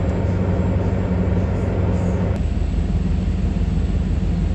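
Towboat's diesel engines running with a steady low hum, under a hiss of wind. A little over two seconds in, the hiss abruptly drops away while the low hum carries on.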